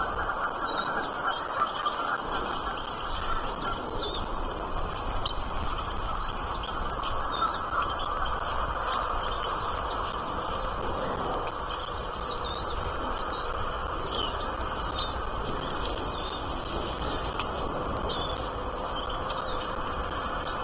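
Small birds chirping: short, high chirps that rise and fall, repeating about once or twice a second, over a steady background hiss.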